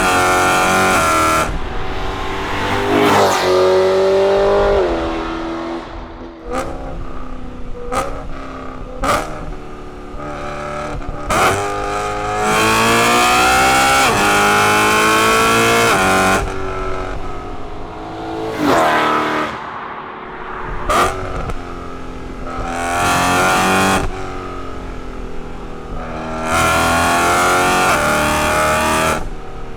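Straight-piped BMW E92 M3's 4.0-litre S65 V8 driven hard. There are several full-throttle pulls that rise in pitch and then drop at the shifts, the longest about halfway through. Between them are quieter off-throttle stretches with short sharp cracks from the exhaust.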